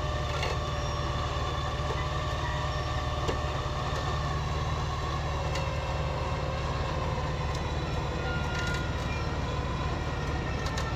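An off-road vehicle running steadily with a constant low drone, and a whine that drifts slowly in pitch above it.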